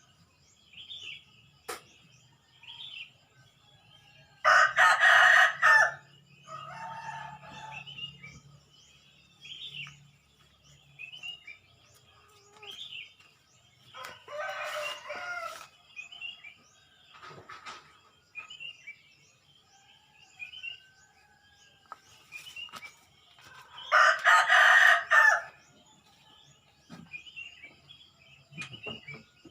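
A rooster crowing three times, about ten seconds apart, each crow the loudest sound. Between the crows, small birds chirp in short high calls.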